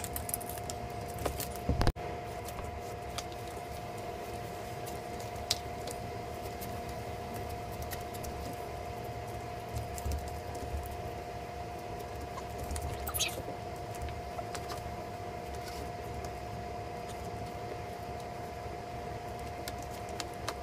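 A steady hum with a few fixed tones, with scattered light clicks and taps over it and one sharper knock about two seconds in.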